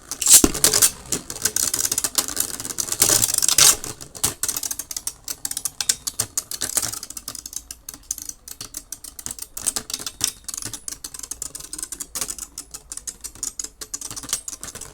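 Beyblade spinning tops clashing in a plastic stadium: a dense, rapid clatter of clicks and rattles, loudest in the first four seconds, then lighter and more scattered as the tops keep spinning.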